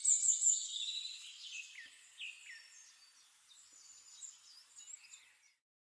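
Birds chirping and singing: many short high calls with quick downward slides, loudest in the first second or so, then fainter, cutting off suddenly about five and a half seconds in.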